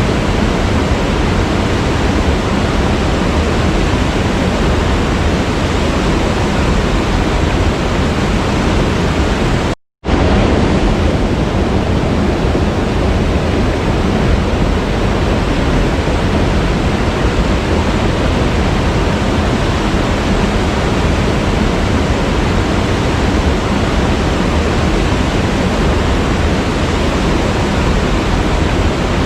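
Waterfall rushing in a steady, even roar of falling water. It cuts out abruptly for a fraction of a second about ten seconds in, then resumes.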